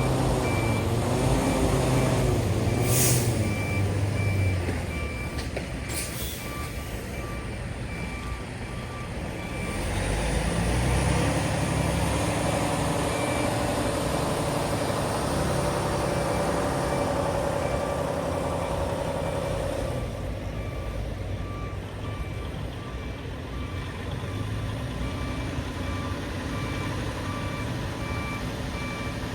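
Semi-truck's diesel engine running, with an electronic beeping alarm repeating at an even pace throughout. Two short, sharp air hisses come about 3 and 6 seconds in, typical of the truck's air brakes.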